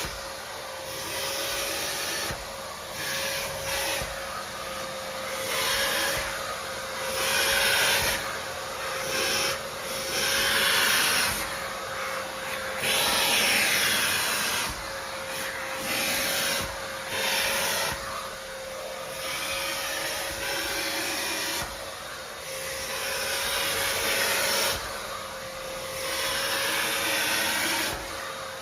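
Vacuum cleaner running, its motor a steady whine, with loud rasping surges every second or two as the nozzle is pushed back and forth over the surface.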